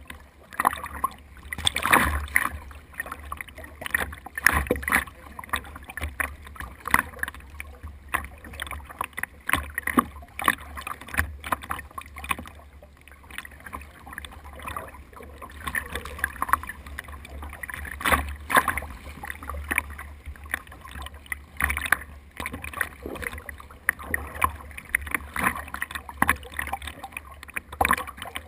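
Water splashing and sloshing around a small paddled boat, heard close up on a mounted action camera, with irregular louder splashes every couple of seconds.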